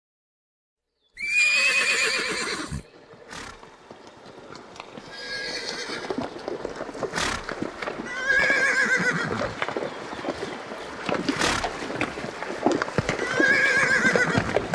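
Horses whinnying four times, each neigh a high call that quavers in pitch, with sharp knocks between the calls.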